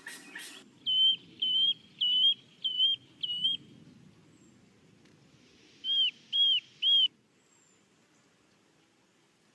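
A bird calling: a run of five short whistled notes, then after a pause three more arched whistled notes.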